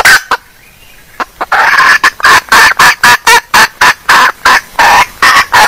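Female junglefowl hen calling: one loud call, then about a second in a fast, even run of loud clucking calls, three to four a second.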